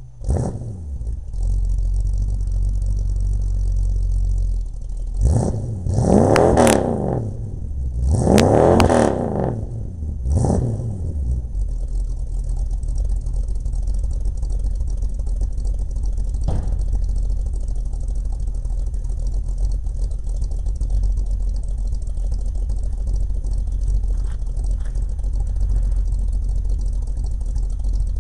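Dodge Dart's 360 V8 running through a home-built exhaust with Thrush glasspack mufflers: it idles, is blipped up and back down four times between about five and eleven seconds in, then settles back to a steady idle with the lope of its camshaft.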